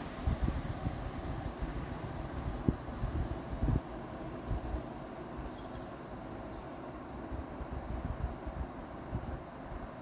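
Wind buffeting the microphone in uneven low gusts, with a faint high chirp repeating steadily a little more than twice a second.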